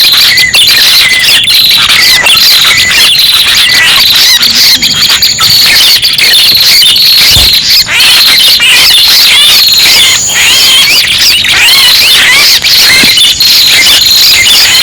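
Bird-lure (pikat) recording played loud: a dense, unbroken chatter of high chirps and squeaks from small birds, used to draw red-headed prenjak in for trapping.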